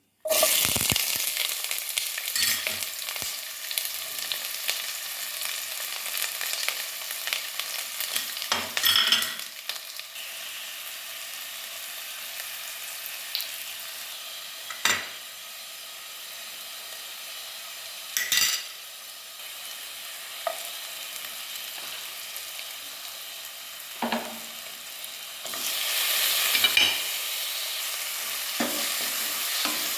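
Food frying in a hot pan with a steady sizzle, with a spoon stirring and scraping against the pan now and then. The sizzle is louder for the first third, dies back, and grows again near the end.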